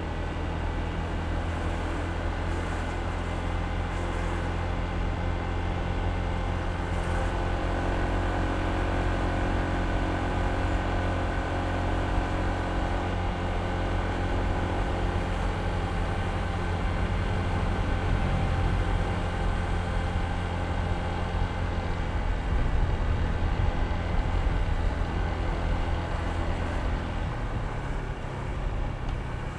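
Honda ADV160 scooter's single-cylinder four-stroke engine running steadily while riding, a continuous drone. Near the end the engine note drops and gets a little quieter.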